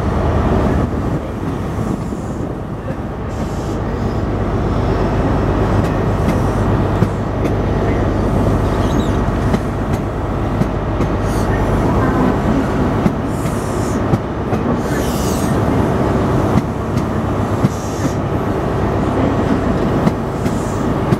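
High Speed Train's Mark 3 coaches rolling past at low speed, with a steady low rumble and hum from the class 43 diesel power cars. Short high hissing sounds come every couple of seconds in the second half.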